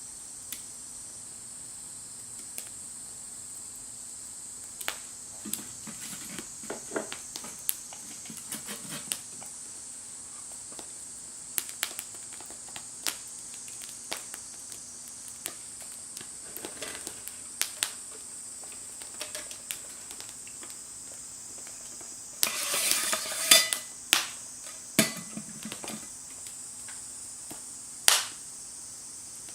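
Wood fire crackling in a Firebox stove: scattered sharp pops and snaps at irregular intervals over a steady high hiss, with a louder rustling, crunching burst lasting a second or two a little past the middle.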